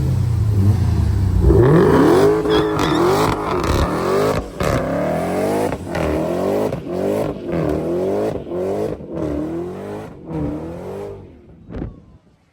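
Car engine revved over and over in quick blips, its pitch rising and falling about once a second. It stops about a second before the end, and a single short knock follows.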